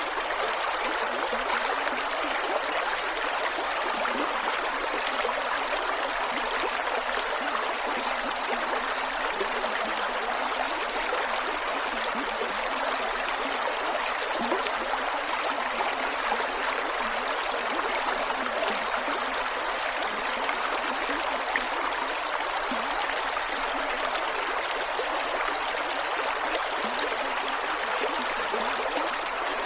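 Creek water flowing and gurgling over rocks, a steady rushing with small trickles.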